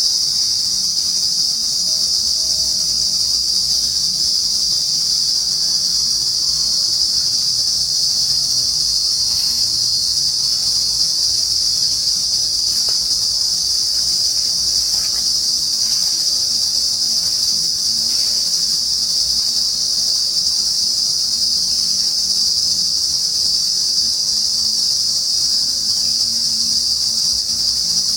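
A dense chorus of insects in trees by day: one continuous, loud, high-pitched shrill buzz that holds steady without a break.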